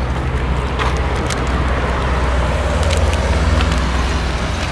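A motor vehicle's engine running with a low, steady hum that grows a little louder about three seconds in.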